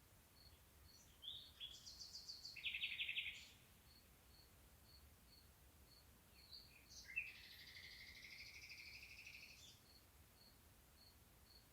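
Birds singing faint trilled phrases, one burst about a second in and a longer buzzy trill about seven seconds in, over a faint high chirp repeating about twice a second.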